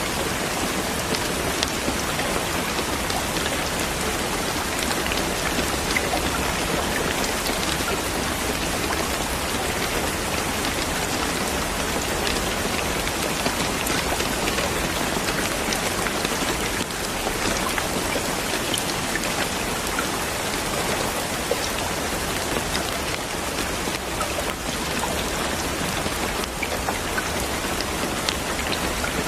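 Steady rain falling on a surface, a continuous hiss scattered with individual drop ticks.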